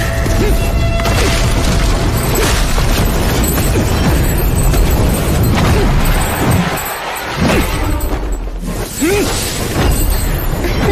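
Battle sound effects over dramatic background music: booms, crashes and shattering impacts in a dense, continuous mix.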